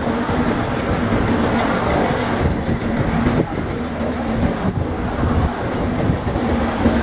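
Indian Railways LHB passenger coaches rolling past at speed: a steady rumble of wheels on the rails, with a faint running hum and the odd clickety-clack knock as wheels cross rail joints.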